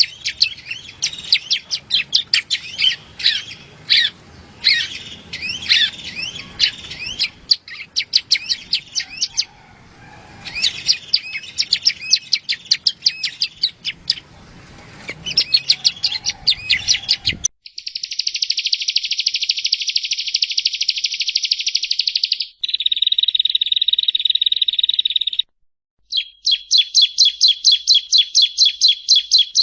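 Prenjak rowo (a prinia) singing: quick varied chirps over a noisy background for most of the first half. Then a sudden switch to a cleaner recording of long buzzing trills, followed near the end by a fast run of repeated high chirps.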